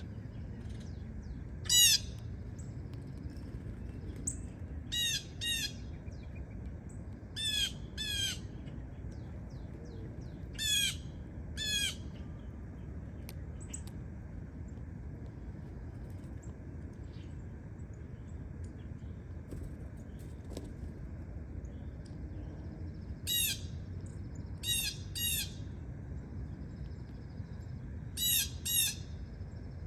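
A bird giving short, harsh squawking calls, mostly in pairs, about a dozen in all with a long pause in the middle, over steady low background noise.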